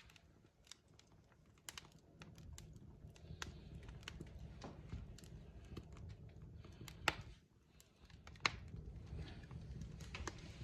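Wood fire crackling in a fireplace: irregular sharp pops and snaps from the burning logs over a low steady rumble, with two louder pops about seven and eight and a half seconds in.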